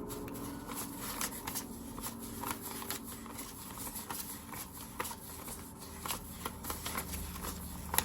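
Paper banknotes being counted by hand: a steady run of quick, crisp flicks and rustles as bills are leafed through one at a time.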